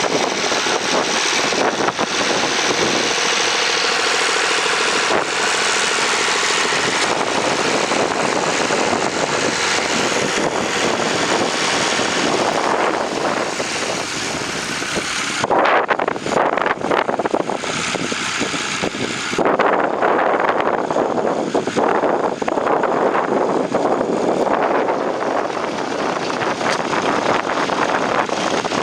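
Massey Ferguson 135 tractor engine running steadily under load while ploughing, mixed with wind noise on the microphone; the sound shifts briefly about halfway through.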